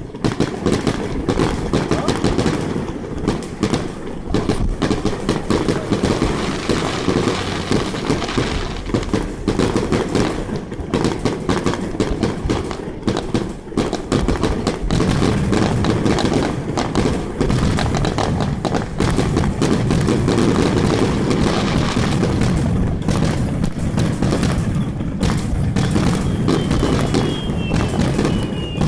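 Fireworks display going off continuously: a dense run of bangs and crackling over a deep rumble of shell bursts, which grows fuller about halfway through. A falling whistle sounds near the end.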